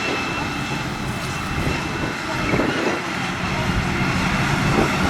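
Tractor engine running steadily, with people talking in the background.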